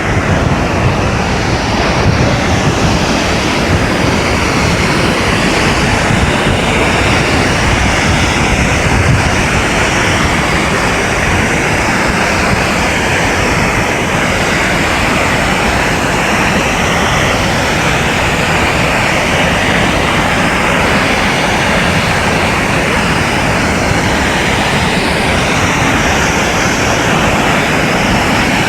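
Steady, loud rushing roar of water falling at Multnomah Falls, an even wash of noise with no breaks.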